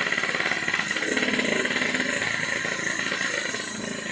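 Yamaha RX-King's two-stroke single-cylinder engine running through a hollowed-out bobokan exhaust, a rapid, even train of firing pulses.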